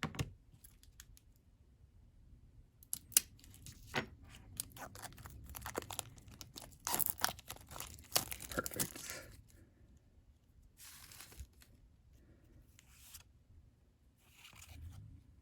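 Wrapper of a trading card pack being torn open and crinkled by hand: irregular sharp rips and crackles, busiest in the middle, then softer rustling.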